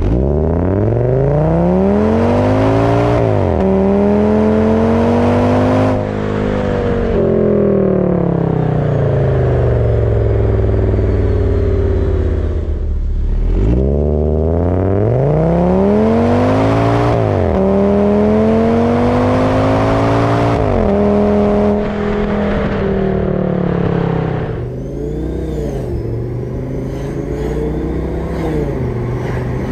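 Audi S6's 5.2-litre V10 engine at the exhaust, accelerating hard twice. The revs climb and drop sharply at each upshift of the automatic gearbox, then ease off. Near the end it is softer, heard from inside the cabin.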